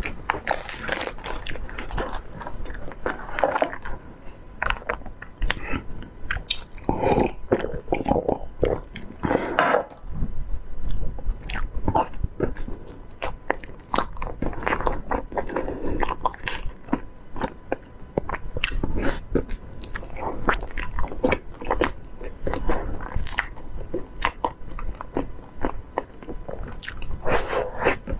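Close-miked mouth sounds of a person biting into and chewing a soft dark-brown filled pastry, with many irregular sharp clicks and wet chewing noises.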